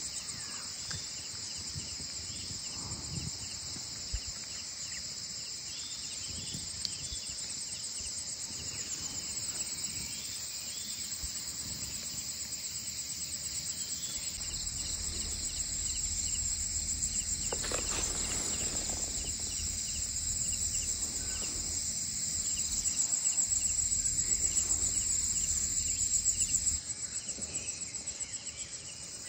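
A dense chorus of forest insects chirring in a continuous high-pitched, rapidly pulsing trill, growing louder in the second half and dropping suddenly near the end.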